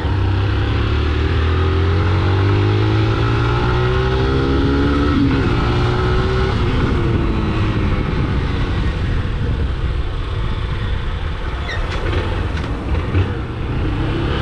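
Motorcycle engine running on the move, its pitch climbing as it accelerates through the first few seconds, then running on steadily.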